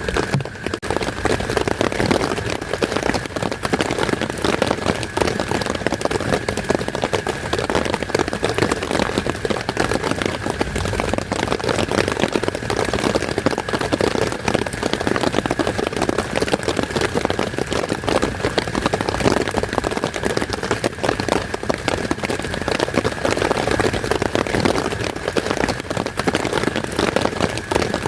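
Heavy rain falling steadily, a dense unbroken patter of drops, with a thin steady high tone underneath.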